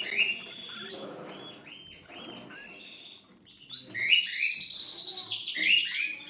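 Canaries chirping: a string of short, quick chirps, with a fast trill of rapidly repeated high notes in the second half.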